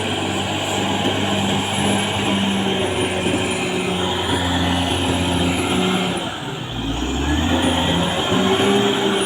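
CAT D6R XL bulldozer's diesel engine running under load, with a thin high whine over it. The engine note sags briefly about six and a half seconds in, then picks up again.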